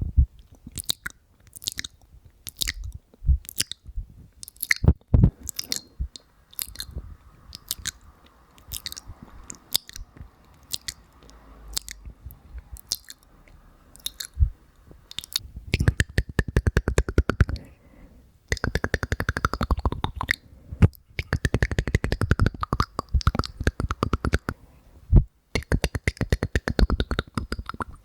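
Close-miked ASMR mouth sounds: wet clicks and pops of the tongue and lips, one or two a second at first, turning about halfway through into a fast, continuous run of clicking and smacking.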